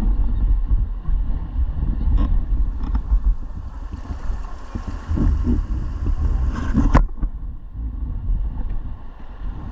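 Wind buffeting the microphone over rushing river water, with a single sharp knock about seven seconds in.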